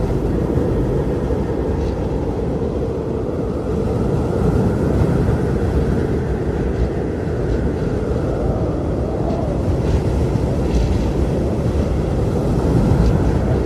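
Blizzard wind blowing hard: a steady deep rumble with a faint howling tone that swells and fades.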